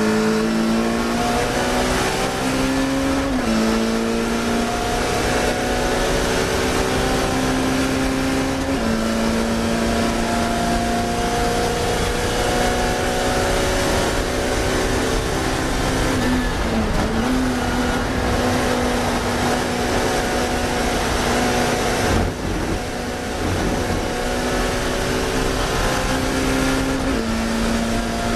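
Classic Mini race car's engine held at high revs at racing speed, heard from on board over heavy road and wind noise. The engine note stays nearly steady but steps down a little a few times, and there is a brief dip and recovery about two-thirds of the way through. A sharp knock comes a little later.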